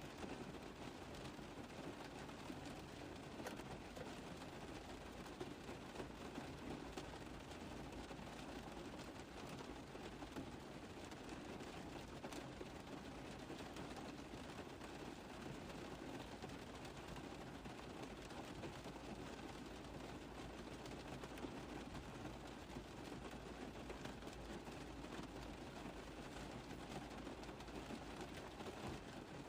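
Rain falling on a car roof: a steady patter of many small drops tapping on the metal, with no pauses or changes.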